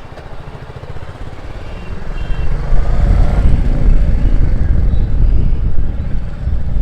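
Motorcycle being ridden, its engine running under a heavy low rumble of wind on the microphone, getting louder about two seconds in.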